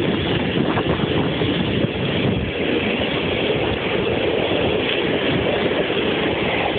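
Express passenger train hauled by an EP07 electric locomotive, running on the rails with a steady rumble, with wind blowing on the microphone.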